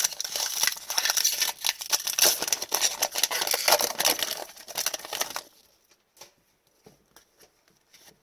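Foil trading-card pack wrapper crinkling and tearing in the hands, a dense crackle lasting about five seconds that stops abruptly. After that come a few faint clicks of cards being handled.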